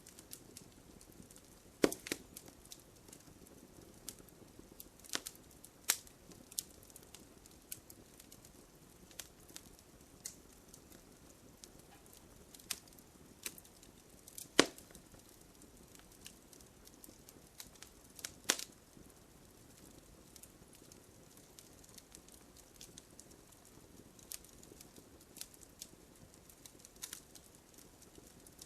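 Wood campfire crackling, with a soft low hiss and irregular sharp pops from the burning logs, a few of them much louder than the rest.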